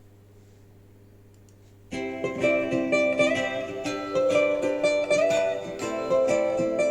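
Low hum at first, then about two seconds in a plucked acoustic-guitar intro starts, played back through a back-loaded horn speaker cabinet with Fostex FE204 full-range drivers and picked up in the room.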